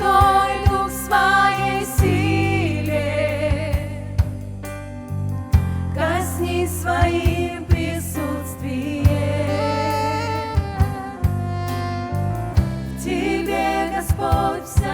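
Live worship band playing a Christian praise song: a sung melody over steady bass, with regular drum hits.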